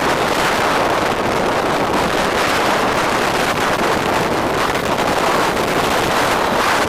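Steady wind rushing over the microphone of a rider on a moving bike, a loud, even roar with road noise underneath.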